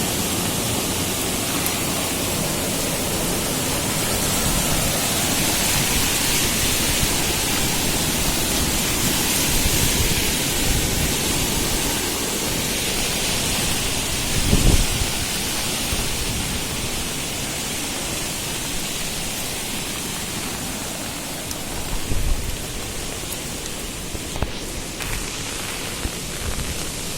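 Steady rushing hiss of water from a river in flood and heavy rain, with a brief low thump about halfway through.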